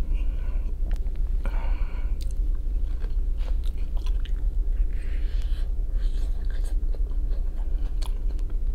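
Close-up chewing and biting of a boiled potato: small, scattered wet mouth clicks and soft smacks over a steady low hum.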